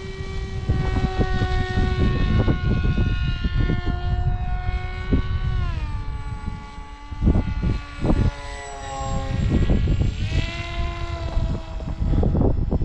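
Electric motor and propeller of a foam combat wing in flight: a steady whine that steps down in pitch about six and nine seconds in and back up about ten seconds in as the throttle changes. Strong wind buffets the microphone in gusts throughout, loudest near the middle and the end.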